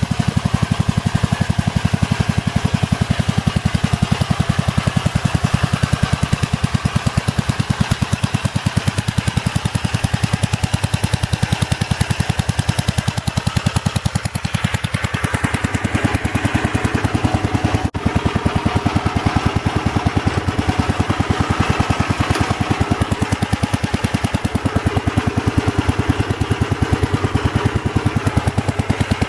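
Gravely walk-behind tractor engine running steadily under load, a rapid even firing beat, driving the four-wheel-drive dump truck on gear reduction wheels. The tone shifts partway through, and there is a brief dropout about eighteen seconds in.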